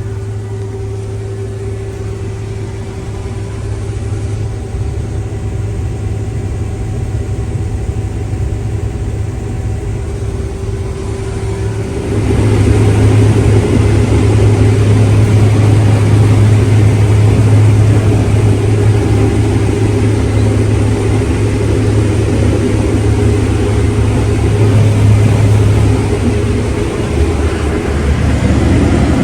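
Farm machinery engine running steadily, with a low hum. About twelve seconds in it gets clearly louder and rougher and stays that way.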